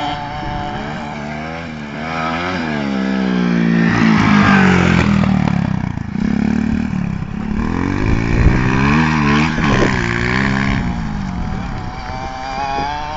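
Pit bike engine revving up and down over and over, its pitch rising and falling as the throttle is worked.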